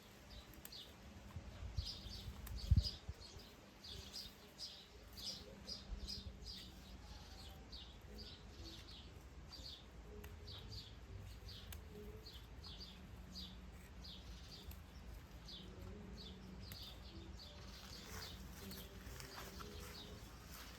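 Small birds chirping, a steady run of short high chirps, a few each second. There are a couple of low knocks in the first three seconds, the loudest just under three seconds in, and a faint low hum in the second half.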